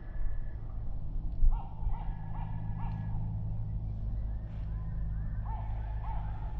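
A bird calling in two runs of short, repeated notes, about three a second, over a steady low rumble.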